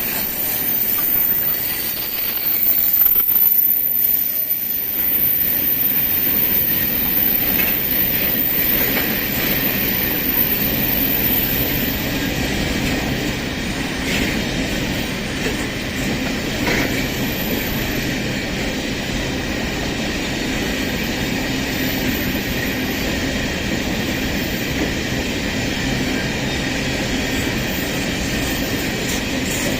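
Empty iron-ore wagons of a long freight train rolling steadily past, their wheels running on the rails in a continuous noise with occasional short metallic squeaks and clicks.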